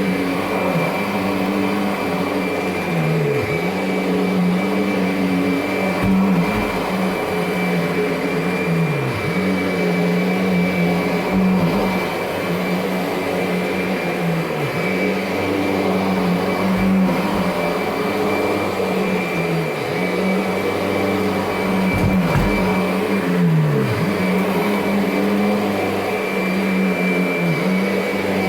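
Kirby G10 Sentria upright vacuum running with its brush roll engaged and Tech Drive power assist on, working over a carpet. It gives a steady high whine over a motor hum, and the hum dips briefly in pitch every few seconds.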